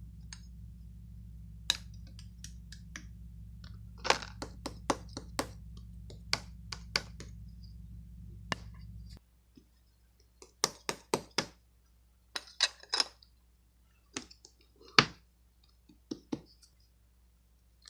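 Irregular sharp clicks and taps, some in quick clusters, over a steady low hum that cuts off about nine seconds in.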